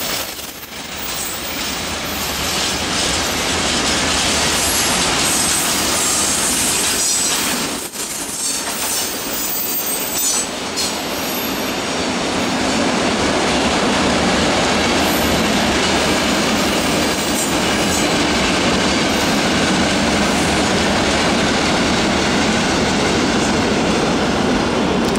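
Mixed freight train of open wagons and hopper wagons rolling past: a steady rumble and rattle of steel wheels on rail, with brief high wheel squeals now and then.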